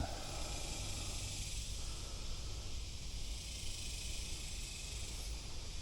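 Steady hiss with a low rumble underneath, unchanging throughout, with no distinct knocks or other events.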